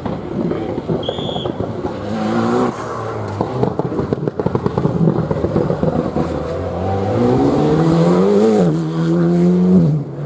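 Rally car engine at high revs, its pitch climbing and dropping with gear changes and throttle, with crackling from the exhaust. Near the end the engine note rises, dips, then holds steady before cutting off suddenly. A brief high whistle sounds about a second in.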